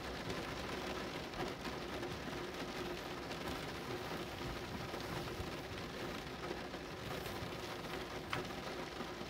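Steady rain falling, with many individual drops ticking sharply on a surface; one drop near the end is a little louder.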